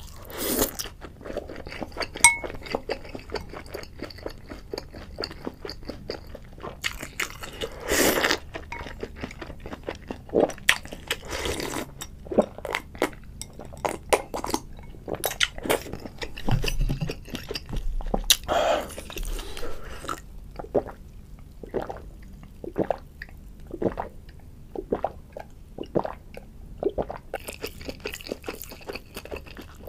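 Close-miked eating: a person chewing and crunching on crispy fried food, with a drink from a bowl of broth and light clinks of chopsticks and bowls. Many short crunches and clicks throughout, with a few longer, louder bursts.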